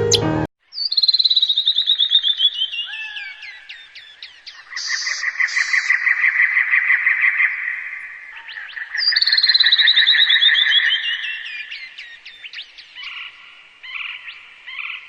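Bird-and-forest sound effect: a quick series of clear notes falling in pitch, heard twice, with a steady rapid trill in between and a few short harsh calls near the end.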